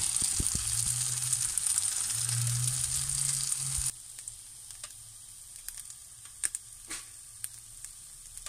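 Sliced onions and cherry tomatoes sizzling in oil in a frying pan, a dense hissing sizzle. About four seconds in it drops abruptly to a much quieter sizzle with scattered clicks and pops.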